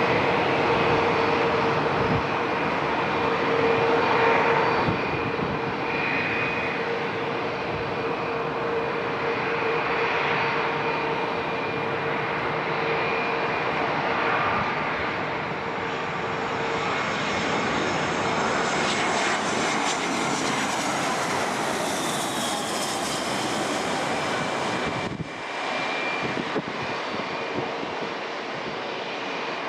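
Airbus A320-232 airliner on landing approach, its twin IAE V2500 turbofan engines making a steady rushing noise with a whine. The sound brightens and swells between about 17 and 24 seconds in as the jet comes closest, then briefly dips about 25 seconds in.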